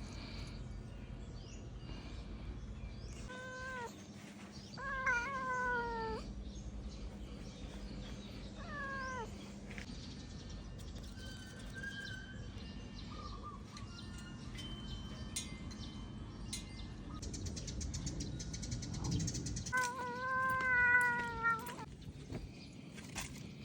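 A cat meowing repeatedly inside a car, long drawn-out meows that fall in pitch, the longest near the end, over the car's steady low rumble.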